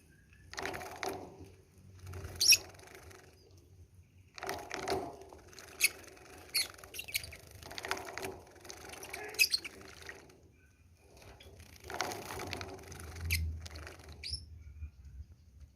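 A Java sparrow bathing: bursts of wing-fluttering and splashing in water, coming again and again, with a few sharp high clicks between.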